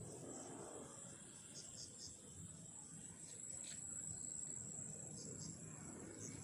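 Crickets chirping at night: a faint, steady high-pitched trill with short chirps repeating about three times a second.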